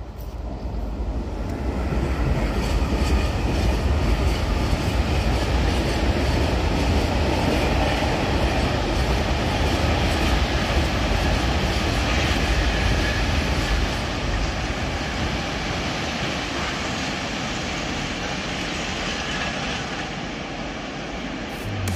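Freight train of covered hopper wagons rolling past, a steady rumble and rattle of wheels on rail that builds over the first couple of seconds and slowly fades in the second half as the train moves away.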